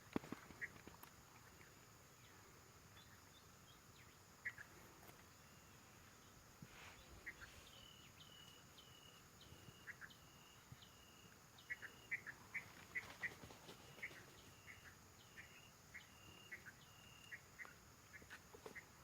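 Faint repeated bird calls: a run of short, high notes, each dropping at the end, about two a second from about eight seconds in to near the end, with scattered short chirps among them.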